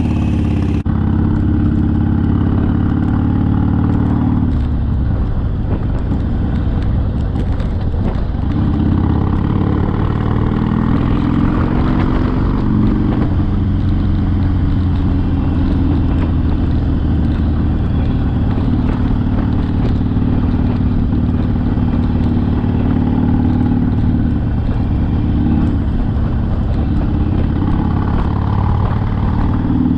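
Harley-Davidson Sportster V-twin engine running under way. Its note breaks off and picks up again a few times, about four, eight and twenty-five seconds in.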